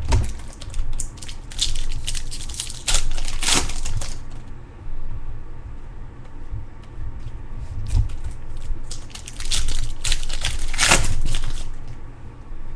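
Foil wrappers of Bowman Chrome baseball card packs being torn open and crumpled by hand, in two spells of crinkling, the second starting about nine seconds in.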